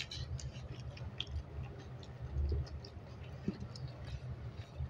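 Quiet eating sounds: soft chewing and small scattered clicks of mouth and food, with a soft low bump about two and a half seconds in.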